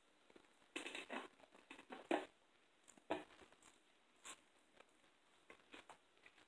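Faint close-up eating sounds: a few short bursts of crunching and chewing with small mouth clicks in between.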